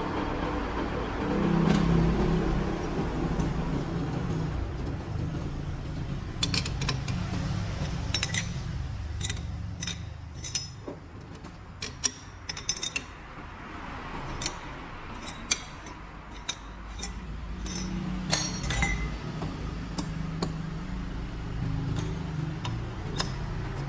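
Metal tools and parts clinking and tapping against each other in irregular bunches, over a low, steady mechanical rumble.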